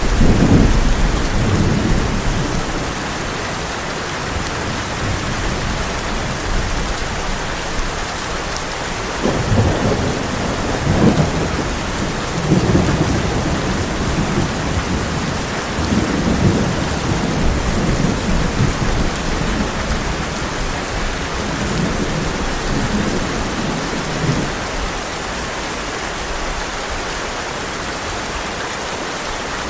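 Heavy rain falling steadily on a tin roof, with rolling thunder: low rumbles swell at the start, again about ten seconds in, and through a longer spell from about sixteen to twenty-four seconds.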